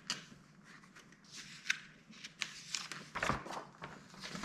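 Light tabletop handling noises: a few brief clicks and short rustles of paper and small game pieces being moved.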